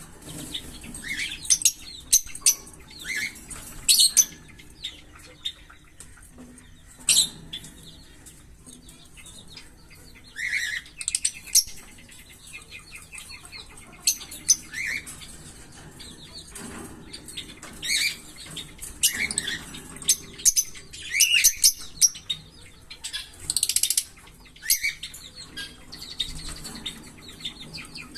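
Small pet parrots chirping and chattering in many short, sharp, high-pitched calls, scattered irregularly, with some wing flapping.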